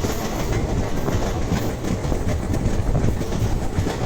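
Passenger train running along the track: a steady rumble with a light clatter of wheels over the rails.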